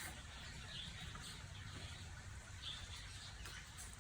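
Faint, scattered bird chirps over a low steady hum.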